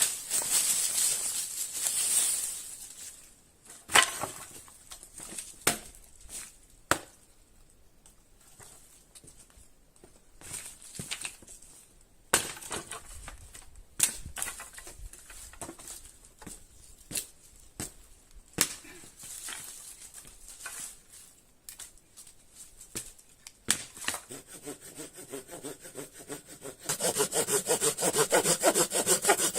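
Scattered knocks and clatters of wood being handled, after a brief hiss at the start. Then, about three seconds before the end, a hand saw starts cutting wood with quick, even strokes.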